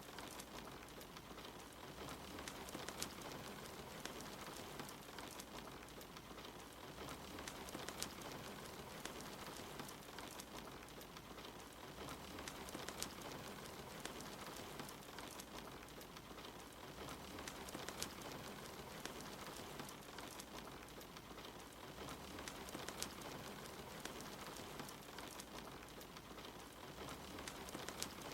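Soft, steady rain with occasional sharp crackles from a wood fire in a fireplace.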